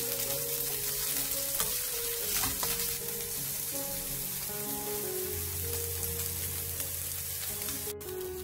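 Diced Spam sizzling as it fries in a dry nonstick pan, with soft background music.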